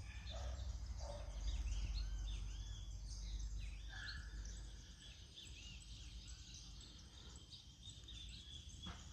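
Several small birds chirping, short arched chirps overlapping, busiest in the first few seconds and thinning out later, over a low steady rumble.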